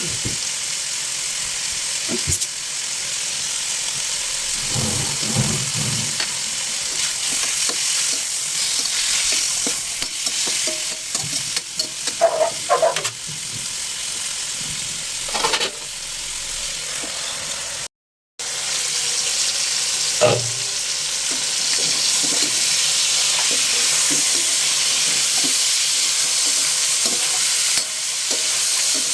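Food sizzling in a hot pan while being stirred, with a few short knocks along the way. The sound cuts out briefly about two-thirds through.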